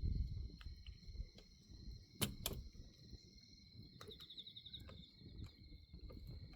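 Wood bonfire crackling, with two sharp pops a little over two seconds in, over a low rumble. Crickets chirp steadily in the background.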